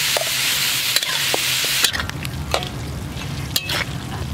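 Curry-coated water snake pieces sizzling in a large aluminium wok while a metal spoon stirs them, scraping and clicking against the pan several times. The sizzle is loud at first and drops sharply about two seconds in.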